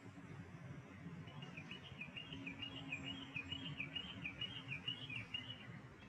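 A small bird calling in a quick run of short, high chirps, about four a second, starting about a second in and stopping near the end, over a steady low rumble of background noise.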